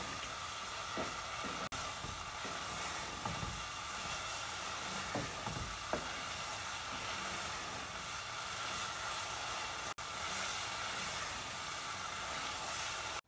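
Grated pumpkin halwa sizzling in a nonstick pan: a steady hiss, with soft scrapes of the wooden spoon stirring through it.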